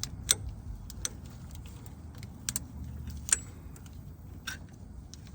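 Scattered sharp metallic clinks of a hand wrench knocking against metal parts under the hood, about five of them, over a low steady background rumble.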